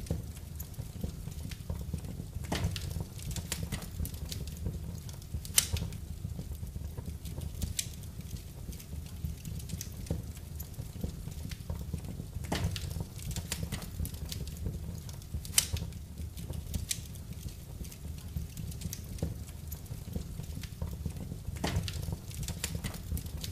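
Wood fire crackling in a fireplace: irregular sharp pops and snaps over a steady low rumble of the flames, with the loudest pops about six seconds in, near the middle and near the end.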